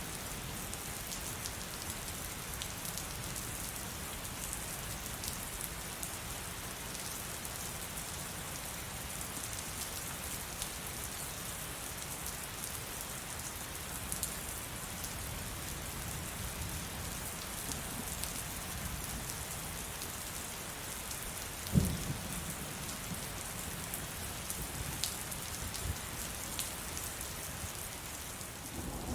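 Steady heavy rain, with drops pattering densely on a surface. About three-quarters of the way through there is a single sudden low thump, which stands out as the loudest moment.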